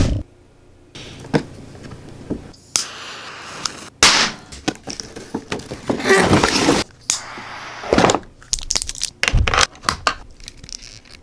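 Handling noise: an irregular series of knocks and clicks with short crackling, scraping bursts, the loudest about four and six seconds in, as of hard plastic parts and packaging being handled.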